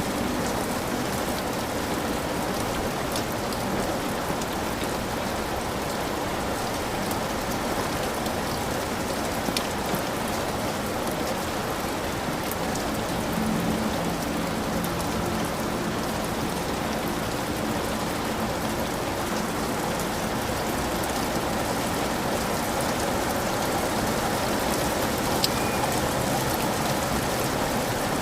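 Heavy rain falling steadily on a hut, a dense even hiss with a few sharper drop ticks.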